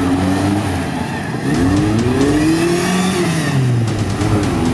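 Jeep Wrangler's engine revving hard under load while stuck in deep mud: the pitch climbs a second and a half in, holds, then falls away near the end.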